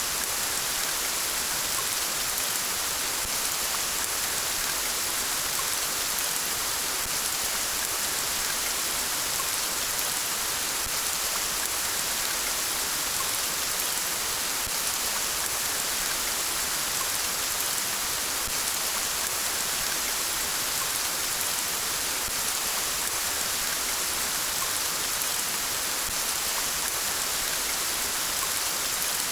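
Steady rain falling, an even hiss of many drops landing on surfaces.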